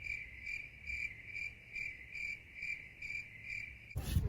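A cricket chirping in a steady rhythm of about two to three chirps a second, with a faint low rumble underneath; it cuts off abruptly near the end.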